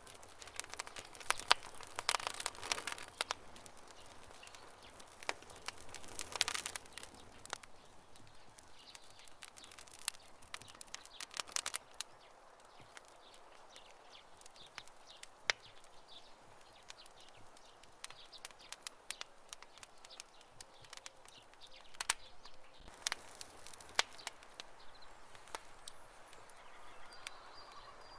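Wood campfire crackling, with sharp irregular pops and snaps over a soft hiss of burning; the crackles come thickest in bursts about two seconds in and again about six seconds in.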